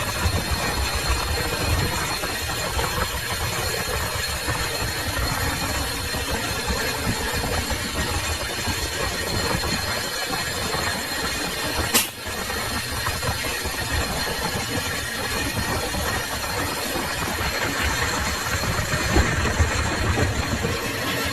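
Metal lathe running steadily, with a thin constant high whine over the machine noise. A single sharp click comes about twelve seconds in.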